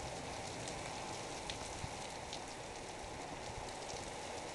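Heavy thunderstorm rain pouring down steadily, an even hiss with scattered drop ticks.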